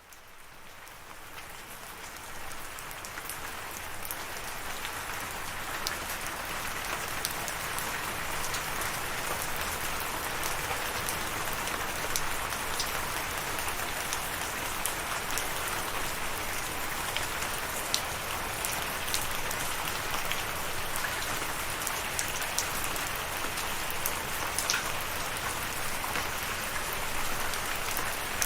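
Steady rain falling, a dense hiss that fades in over the first couple of seconds, with scattered sharp ticks of individual drops striking a surface.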